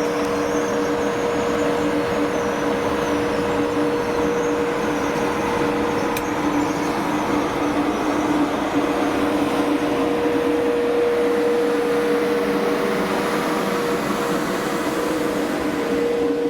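Steady hum and rumble of a sleeper train, with two held tones over an even noisy rumble that does not change.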